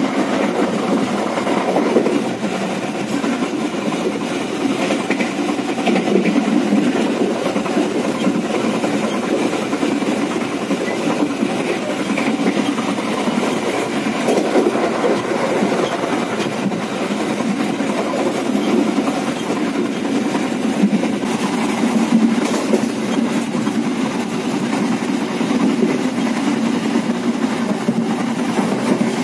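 Steady running noise of a Walahar Express economy (K3) passenger coach at speed, heard inside the coach: wheels rolling on the rails and the car body rumbling.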